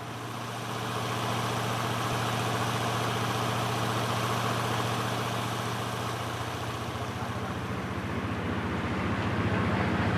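V8 diesel truck engine in a small boat running steadily at low speed, swelling a little about a second in and again near the end.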